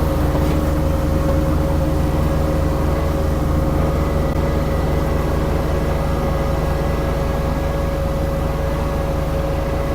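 Mini skid steer engine running steadily at constant speed, with a steady high tone above the engine.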